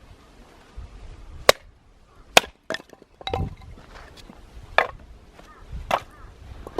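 Firewood being split: about six sharp wooden chopping strikes at irregular spacing, roughly a second apart.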